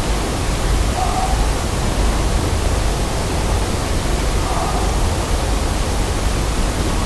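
A steady, loud hiss spread evenly across all pitches, with a few faint brief tones about one second and four and a half seconds in.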